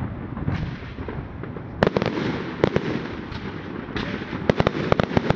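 Firework display going off: scattered sharp bangs over a steady crackling haze, then a quick run of bangs near the end.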